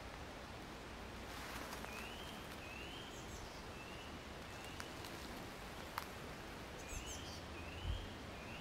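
A bird calling in two runs of short whistled notes, each note rising and then levelling off, repeated about one and a half times a second with a pause between runs. A brief rustle comes near the start and a sharp click about six seconds in.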